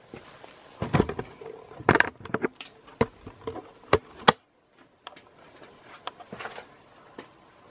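A series of sharp knocks and clicks, the loudest about four seconds in, followed by a brief dead silence and then a few fainter clicks.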